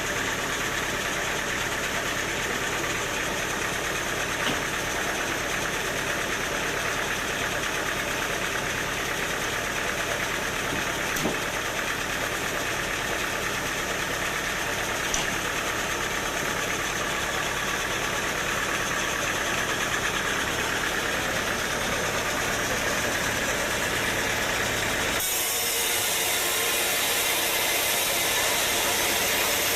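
Sawmill machinery running with a steady engine-like drone and a few faint ticks. About 25 seconds in, the sound changes abruptly to a louder, higher hiss.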